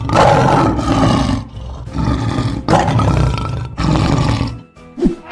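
Lion roaring, about four loud roars in a row, each about a second long.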